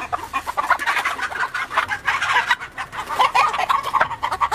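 A flock of chickens clucking, many short calls overlapping throughout.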